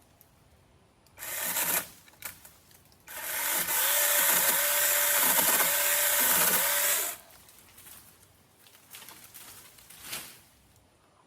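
Small electric power tool, briefly triggered about a second in, then running for about four seconds under load, its motor pitch sagging and recovering four times; a few faint knocks and rustles follow.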